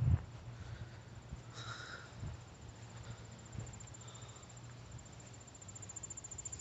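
Crickets chirping in a steady, high-pitched trill, a little stronger near the end, with a soft thump right at the start.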